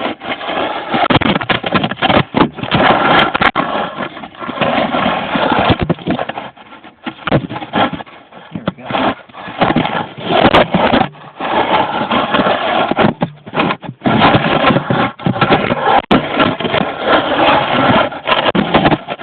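Car engine running with exhaust blowing out of a hole in the front exhaust pipe near the catalytic converter. The sound is loud and rises and falls irregularly.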